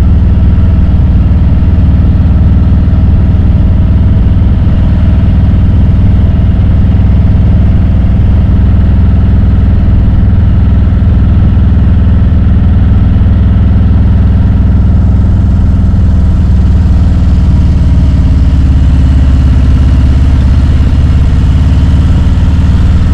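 Harley-Davidson Road Glide's V-twin engine running steadily at low road speed, a loud, even engine note.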